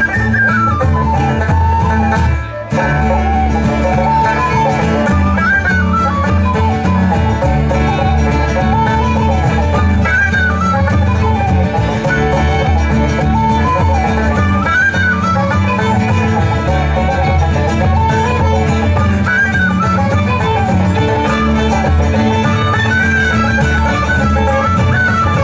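Live bluegrass instrumental music with acoustic guitar and banjo over a steady bass line, the melody moving in quick runs. The sound drops out for a moment about two and a half seconds in.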